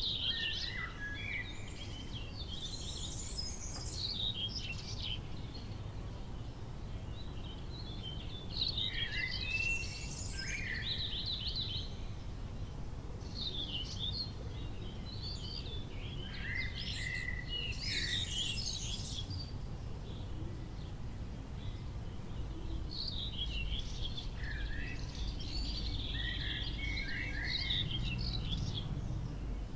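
Birds chirping and singing in short bursts every few seconds, over a steady low rumble.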